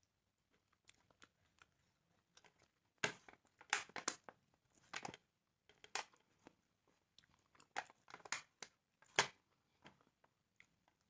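Close-up eating sounds of grilled chicken: irregular crunches and chewing as pieces are bitten and meat is pulled off the bones, coming in short clusters.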